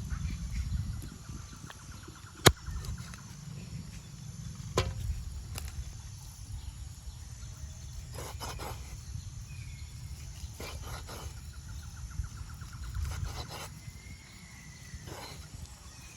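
Outdoor rural ambience: a steady low rumble with a few sharp knocks and clatters, and faint bird calls.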